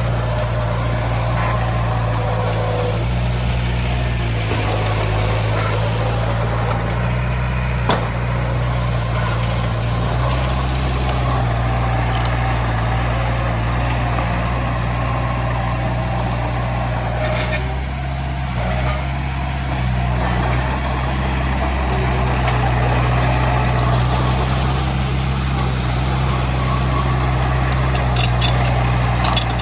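Heavy diesel engine of earthmoving machinery running steadily under load, with small shifts in engine speed.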